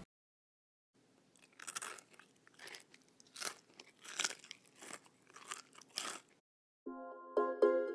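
Close-up crunching as someone chews a crispy deep-fried battered cauliflower floret (gobi 65): about eight to nine irregular crisp crunches over some five seconds. Plucked-string music comes in near the end.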